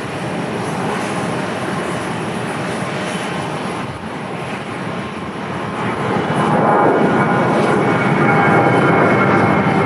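Jet airliner's engines on a landing approach, a broad rumble that gets louder about six seconds in as a steady high whine comes in over it.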